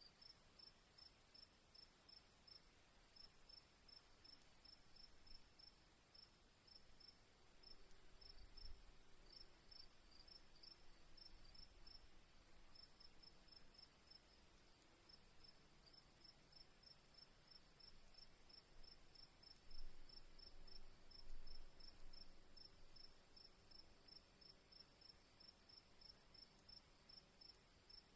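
Crickets chirping evenly, about three chirps a second, over a steady high insect drone. A few faint low rumbles come and go, the loudest about two-thirds of the way through.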